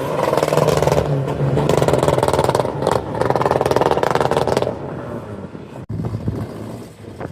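A car engine and exhaust running loud and steady for about four and a half seconds, with a short dip near three seconds, then dropping to a lower level.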